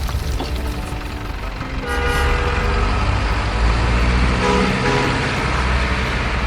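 Multi-tone vehicle horn sounding from about two seconds in, its pitches changing over a few seconds, over a steady low rumble.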